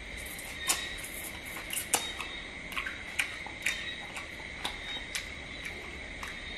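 Close-up chewing of stir-fried crab: irregular sharp crunches and clicks, about two a second, over a steady high whine.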